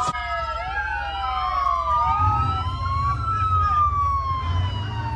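Several sirens wailing at once, their pitches sliding up and down and crossing one another, over a low engine rumble.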